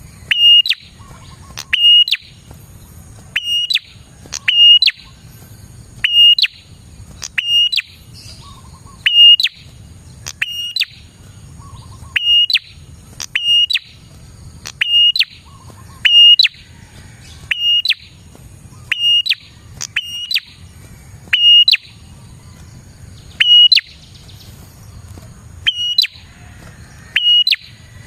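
Bar-winged prinia (prenjak) calling vigorously: short, sharp, high chirps repeated steadily about once every second and a half.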